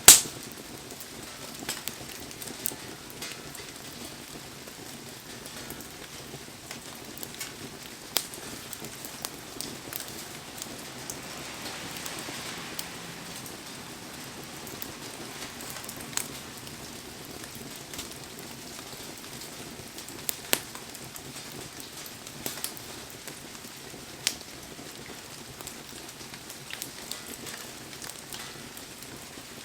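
Wood bonfire crackling and popping in heavy rain: a steady rain hiss with sharp pops every few seconds, the loudest right at the start.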